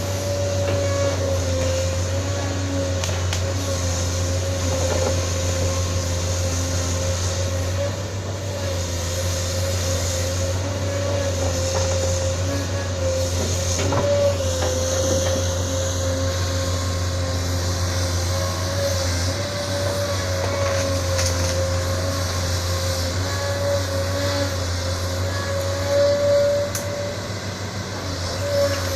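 Isuzu 6BG1 inline-six diesel engine of a Sunward SWE210 excavator running steadily, a low drone with a steady higher hum over it.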